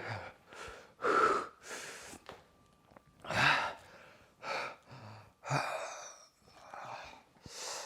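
A man breathing hard and gasping through his mouth in a string of sharp, breathy exhalations about once a second: reacting to the burn of very spicy hot sauce on his tongue.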